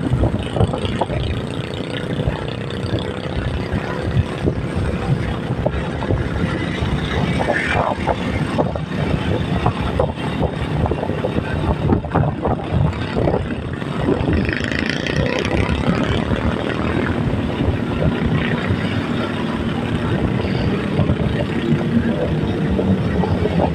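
Steady road and engine noise of a moving vehicle.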